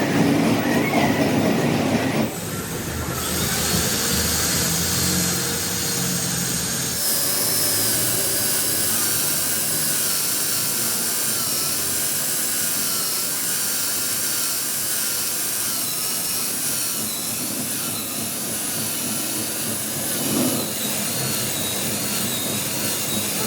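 Machine tool cutting metal: a steady mechanical run with a wavering high whine. The sound changes abruptly about two seconds in and again about seven seconds in.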